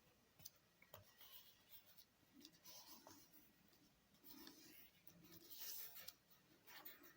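Faint rustling and rubbing of a sheet of origami paper being handled and creased by hand, with a few soft clicks.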